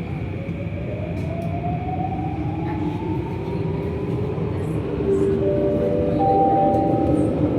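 Downtown Line C951A metro train accelerating out of a station, heard from inside the car: a rising whine from the traction motors over a steady rumble of the car. About five seconds in, several steady tones join and the sound grows louder.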